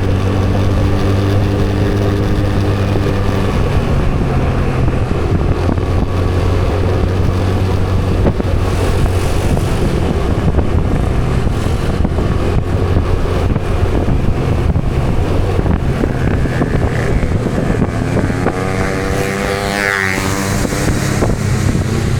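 Motor vehicle engine and road noise while riding, with wind on the microphone. A vehicle passes close about three-quarters of the way through.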